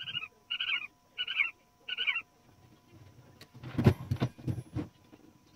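A bird calls four times in quick, evenly spaced short notes. About a second and a half later comes a clatter of sharp knocks, the loudest near four seconds in, as typewriter parts are handled during disassembly.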